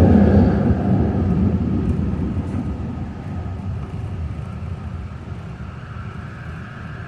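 SkyTrain rapid-transit train running, a loud rumble that dies away steadily over several seconds.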